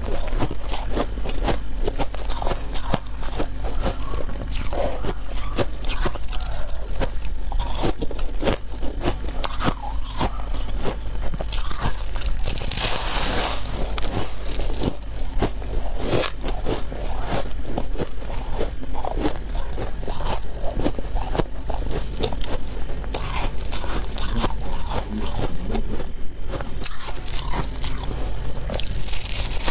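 A person biting into and chewing freezer frost and ice close to the microphone, with dense, continuous crunching. A louder, hissier crunch comes a little before the middle, and another at the very end.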